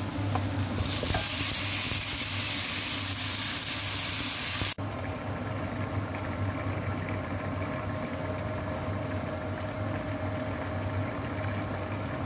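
Chicken pieces going into hot oil with sliced onions in a frying pan, sizzling loudly. Just under five seconds in, it cuts to a quieter bubbling of chicken curry simmering in the pan, with a low steady hum underneath.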